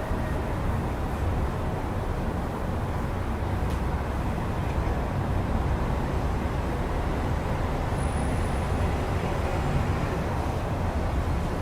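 Steady city road-traffic noise heard through an open window: a continuous low rumble of cars and buses.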